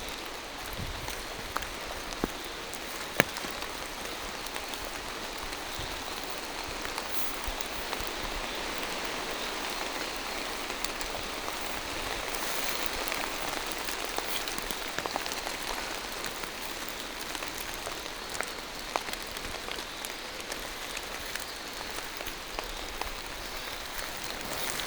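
Steady rain falling through forest trees, with individual drops tapping sharply here and there.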